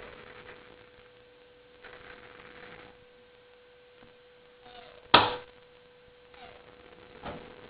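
A single loud, sharp metallic bang about five seconds in, ringing briefly, with a smaller knock near the end: railcar couplers slamming together during switching. A steady high hum runs underneath.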